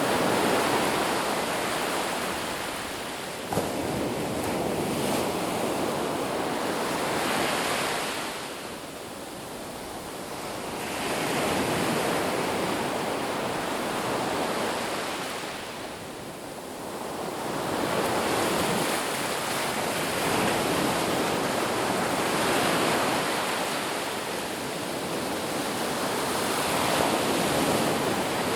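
Ocean surf: waves breaking and washing up the beach as a steady rushing hiss that swells and ebbs, fading twice before building again. A brief click about three and a half seconds in.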